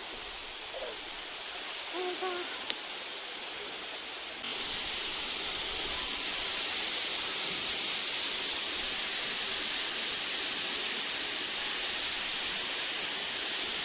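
Waterfall rushing: a steady hiss of falling water that gets louder about four seconds in and then holds. Faint distant voices are heard in the first couple of seconds.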